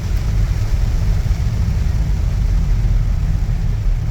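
Steady low rumble of a car on the road, engine and road noise without break.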